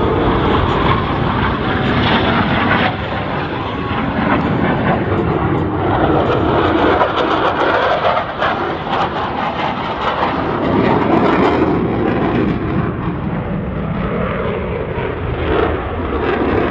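Blue Angels F/A-18 fighter jets making a loud, continuous jet roar during their airshow display, the level shifting a little a few times.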